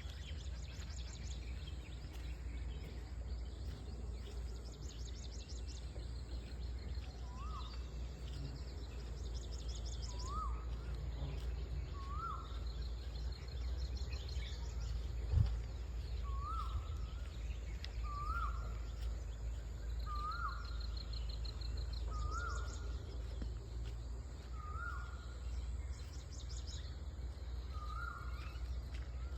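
Asian koel calling: a short rising note repeated every one and a half to two seconds, over a steady low rumble and the high rapid trills of smaller birds. A single sharp knock about halfway through.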